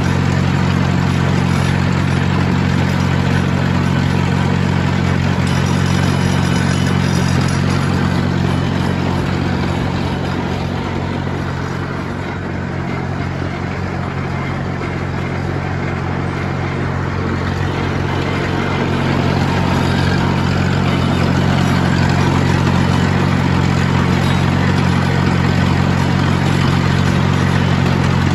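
Engine of a vintage Allis-Chalmers Speed Patrol motor grader running steadily, a little quieter for several seconds in the middle before coming back up.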